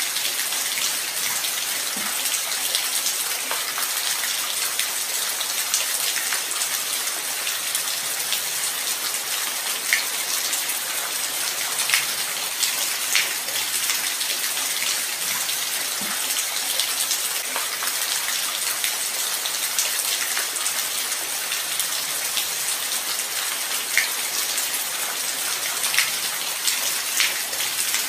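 Light rain falling steadily, an even hiss with individual drops ticking here and there.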